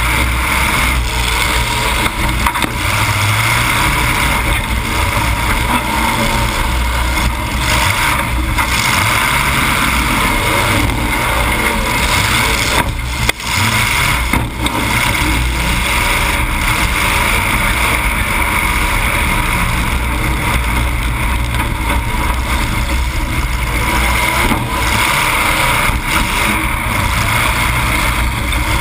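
Demolition derby car's engine running loud through two short open exhaust stacks that stick up through the hood, heard from inside the car. Steady throughout, with two brief dips about halfway through.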